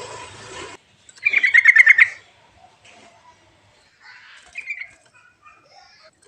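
A recording of yellow-vented bulbul (trucuk) song played as a lure. One loud, rapid, bubbling phrase comes about a second in, and softer short chirps follow near the end. A hissy background cuts off abruptly just before the song starts.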